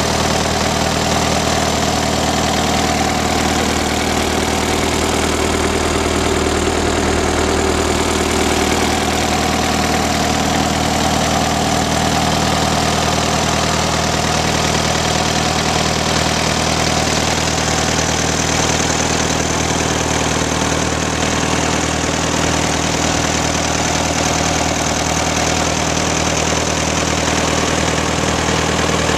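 1938 Case C tractor's four-cylinder engine idling steadily.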